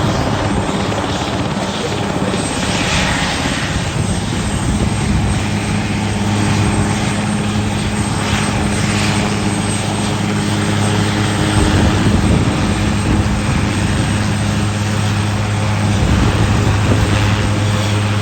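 Helicopter running nearby: a steady low hum from the rotors over the whine and rush of the turbine engines, swelling a little towards the end.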